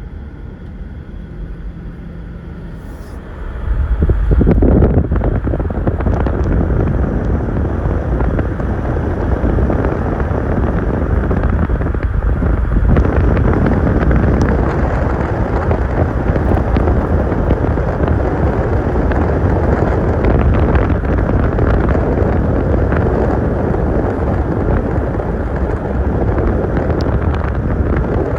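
Wind and road noise of a moving car, a steady rumbling rush that jumps abruptly louder about three and a half seconds in.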